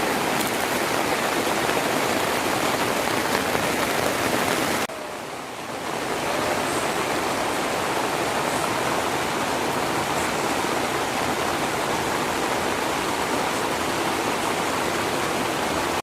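Heavy rain falling, a steady dense hiss, dipping briefly about five seconds in before going on as before.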